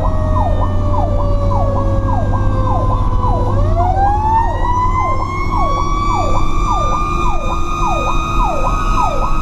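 Fire truck sirens: an electronic siren cycles in a fast up-and-down yelp about twice a second, while a mechanical Federal Q siren coasts down in pitch, then winds back up steeply about three and a half seconds in and holds a high scream. A low truck engine rumble runs underneath.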